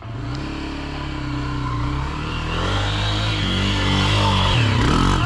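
Dirt bike engine running under load as the rider accelerates, its pitch stepping up and shifting. Near the end the revs drop briefly and climb again.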